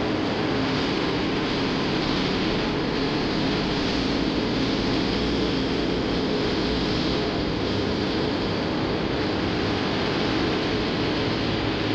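Steady running noise inside a moving MRT Line 3 light rail car: an even rushing sound with a low steady hum, unbroken throughout.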